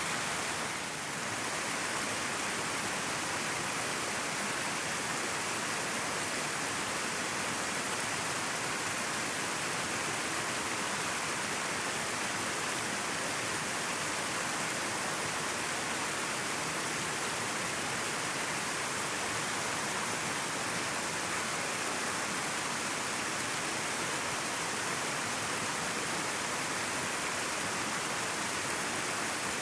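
River water flowing steadily, an even rushing hiss with no let-up.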